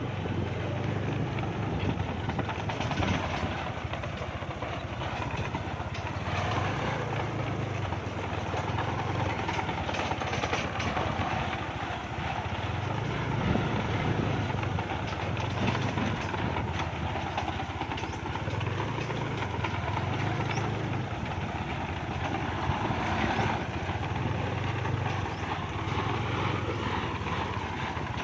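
Kubota L5018 tractor's diesel engine running steadily under load, driving a long-pipe 'phaya nak' water pump by belt from a 22-inch pulley.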